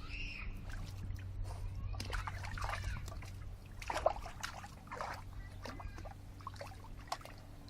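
Water in a bird bath splashing and sloshing irregularly as a small Boston terrier–French bulldog mix plays in it.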